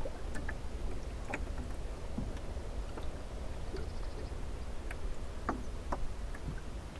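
Small sailing dinghy under way: water lapping and trickling against the hull, with scattered light clicks and knocks, over a steady low rumble.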